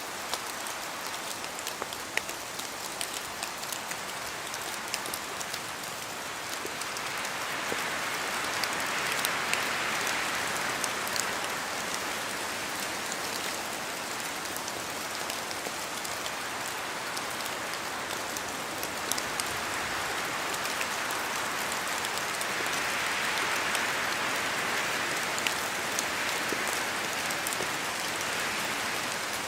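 Steady rain falling in a spruce forest, with many sharp ticks of drops falling from the trees. Twice the hiss swells and fades over several seconds as wind blows through the spruce branches.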